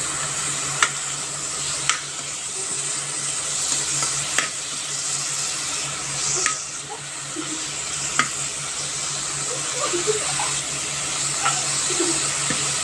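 Spinach sizzling as it is stir-fried in a hot pan, with a utensil clicking against the pan every second or two.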